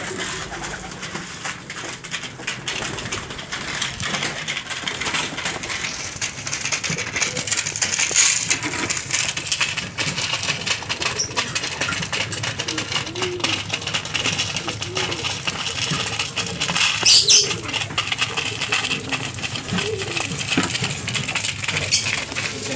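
A flock of domestic pigeons at their loft: quick clicking and clattering of wings and feet, soft cooing calls, and a louder flurry of wing flaps about two-thirds of the way through.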